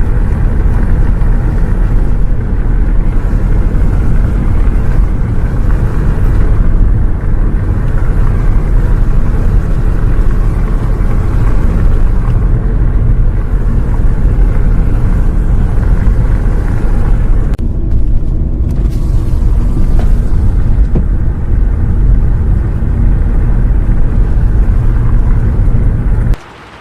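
Heavy, steady low rumble of a bus running on the road, cutting off abruptly near the end.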